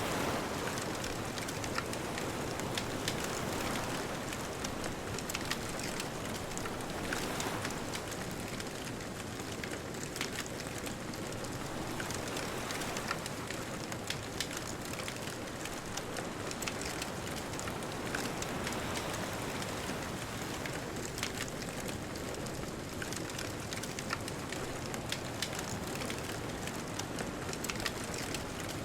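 Wood bonfire crackling, with scattered sharp pops and snaps, over a steady wash of distant ocean surf.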